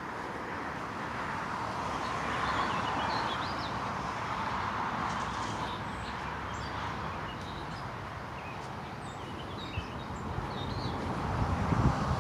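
Highway traffic passing, a steady wash of tyre and engine noise that swells and eases, rising again near the end. Birds chirp intermittently over it.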